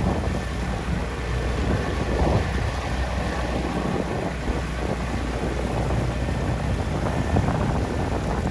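Wind buffeting the microphone over the steady rumble of a boat under way, with water rushing past the hull.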